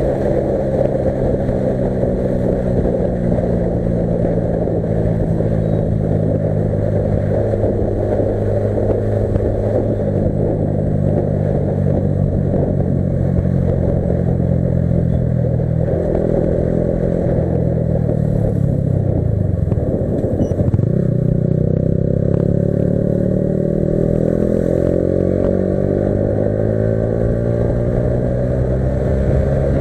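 Yamaha R15 V3's 155 cc single-cylinder engine running while the motorcycle is ridden, its pitch rising and falling with the throttle. About two-thirds of the way through the engine note drops low as the bike slows, then climbs again as it pulls away.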